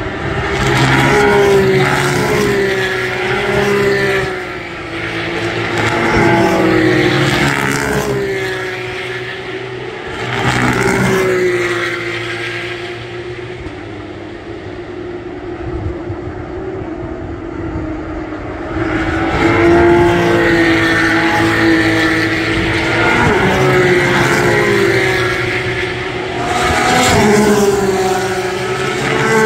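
Porsche race car engines passing one after another at speed, the pitch climbing and dropping through gear shifts. The sound swells and fades about five times, loudest near the start and in the second half.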